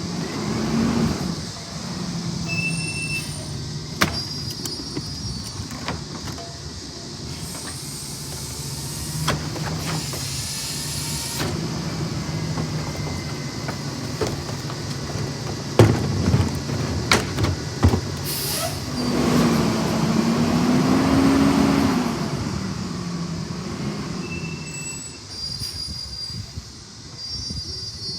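A CNG rear-loader garbage truck at work: the engine runs steadily, then speeds up and rises in pitch for a few seconds about two-thirds of the way through as the hydraulics load. Several sharp metal clanks and a hiss of air or hydraulics come along with it.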